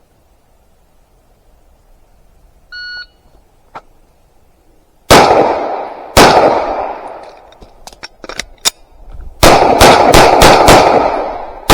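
A shot timer's start beep, then 9mm shots from a Sarsilmaz SAR9 pistol: two shots about a second apart, a few light clicks, then a fast string of about six shots with one more at the very end.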